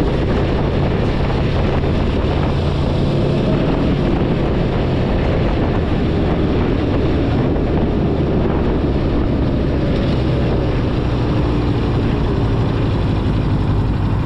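Motorcycle engine running while riding, its pitch drifting a little with the throttle, with wind noise on the microphone.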